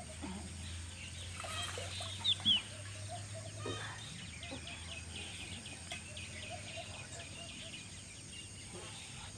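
Birds calling in the background: many small chirps throughout, with two short, sharp, falling calls about two seconds in that are the loudest sounds.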